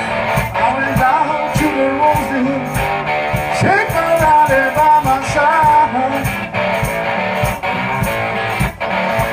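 A one-man band playing a blues instrumental break: guitar over a steady drum beat, with bending lead notes in the middle.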